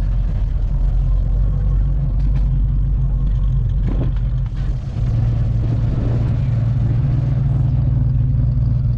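Classic car engine running at low speed, driving slowly past; its low exhaust note gets louder about five seconds in.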